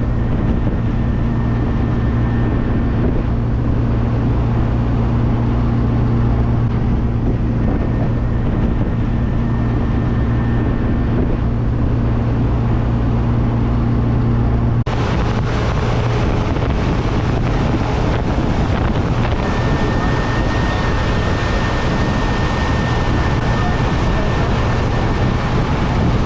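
A classic car driving at road speed: a steady engine drone with road and wind noise. About halfway through the sound changes abruptly to a brighter, hissier rush of wind and road noise.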